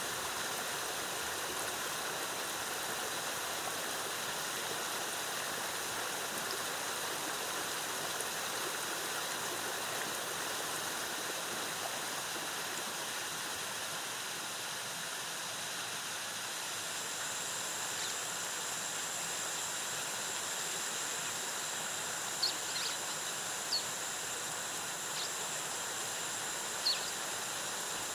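Waterfall cascading, a steady rush of falling water. About halfway through a thin high steady note joins in, and a few short high chirps sound near the end.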